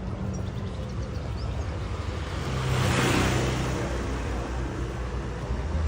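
A road vehicle passes by about three seconds in, its sound swelling and fading over a steady low rumble.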